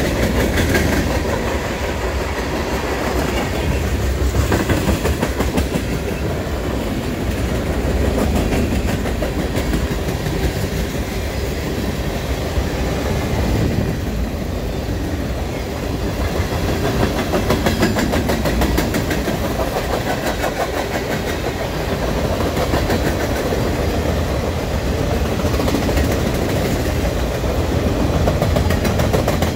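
Freight train cars (tank cars, covered hoppers and boxcars) rolling steadily past. Steel wheels rumble on the rails with a continuous clickety-clack over the rail joints.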